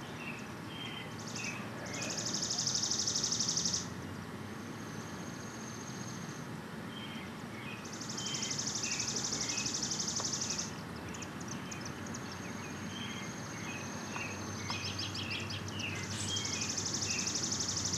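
Birds singing at dusk: a high, rapid trill lasting two to three seconds, heard three times, with short chirps in between, over steady outdoor background hiss.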